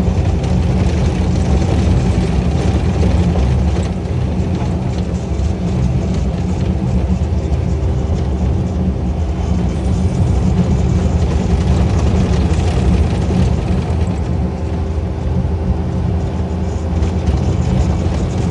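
A motor engine running steadily with a deep rumble, its sound holding level with little change.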